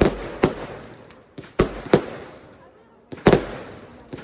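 Fireworks going off: six sharp bangs in three pairs, at the start, about a second and a half in, and just after three seconds, each fading out in a long echo.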